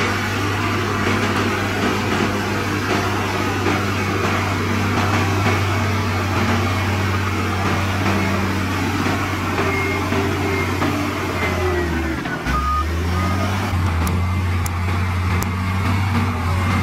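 Heavy diesel engine of earthmoving equipment running hard and steadily. Its note dips and falters briefly about twelve seconds in, then picks back up.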